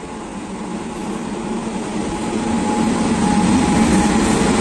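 Electric locomotive hauling the Rajdhani Express passing close by at low speed: a steady electric hum over the noise of wheels on the rails, growing steadily louder as the locomotive draws level.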